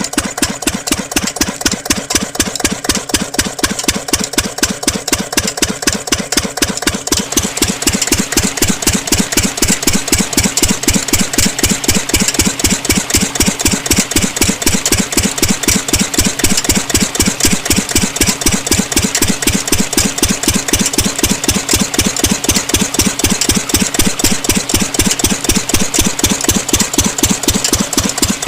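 Miniature engine of a DIY diesel-engine water pump model running steadily, with a fast, even chugging beat.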